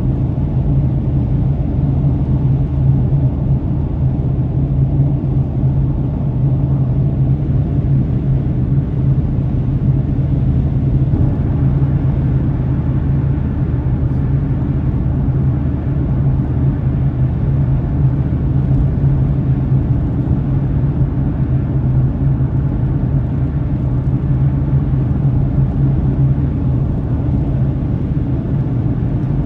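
Steady low rumble of a car driving, road and engine noise heard from inside the cabin, with an even low hum running under it.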